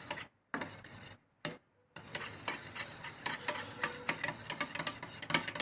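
Raw eggs and salt being beaten in a bowl, the utensil clicking rapidly against the bowl. Brief silent breaks in the first two seconds, then steady.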